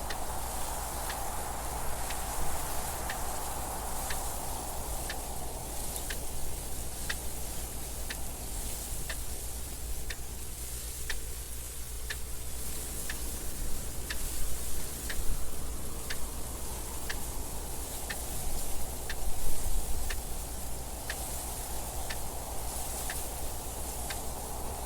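A clock ticking steadily, about once a second, over wind noise that swells and fades, with stronger gusts about halfway through and again near the three-quarter mark.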